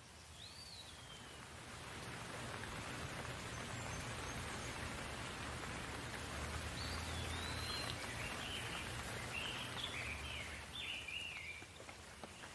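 Steady rain falling, the hiss building over the first couple of seconds and easing off near the end. A bird calls once near the start and then gives a run of short chirps in the second half.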